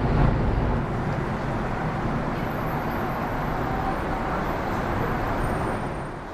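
Airbus A330 airliner departing, its jet engine rumble heavy at first, then easing into a steady wash of noise that fades before cutting off abruptly.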